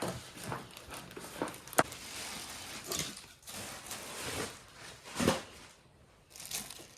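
Handling noises around a new battery lawnmower and its packaging: scattered knocks and clicks with rustling, a sharp knock about two seconds in and a heavier thump about five seconds in.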